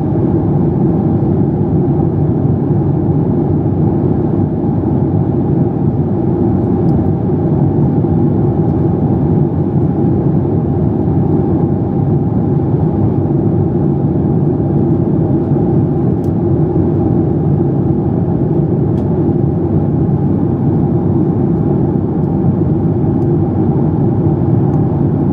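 Steady engine and airflow noise inside the cabin of a Boeing 737 MAX 8, a loud, even drone with no change in thrust.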